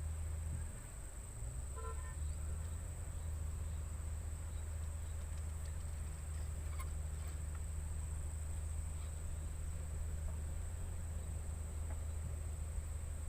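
Insects, likely crickets, trilling steadily on one high note over a loud, steady low hum, with a short pitched toot about two seconds in.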